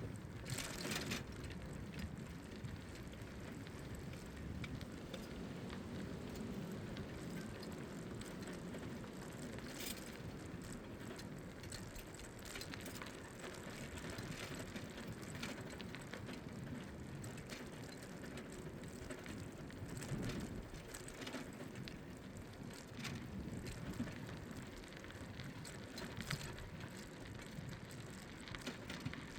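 Bicycle heard from the saddle: tyres rolling along the path, with the rear hub's freewheel ratchet ticking as the rider coasts, and scattered light clicks.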